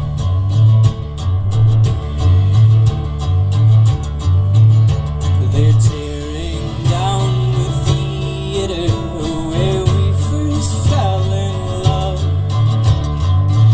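Live band playing an instrumental passage of a song: strummed acoustic guitar over a pulsing bass line, with a gliding lead melody coming in around the middle.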